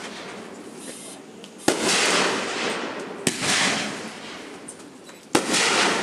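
Aerial fireworks bursting: three sharp bangs about a second and a half to two seconds apart, each followed by a hissing crackle that fades over a second or so.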